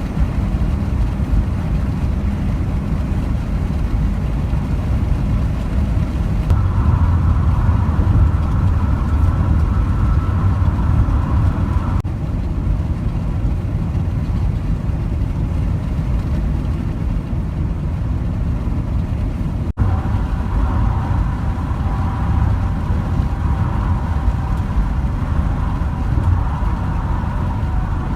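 Steady low rumble of a motor vehicle running along a road, with a faint whine that comes in for a few seconds at a time. The sound breaks off for an instant about twenty seconds in.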